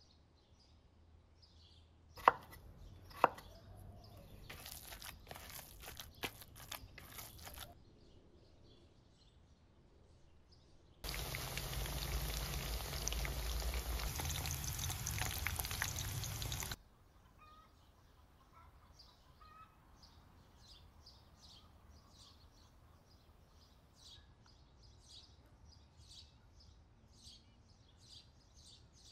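Chicken-mince cutlets (kotlet) frying in a pan of hot oil: a loud, steady sizzle for about six seconds in the middle. Before it come two sharp knocks and a few seconds of clatter. After it, faint bird chirps repeat.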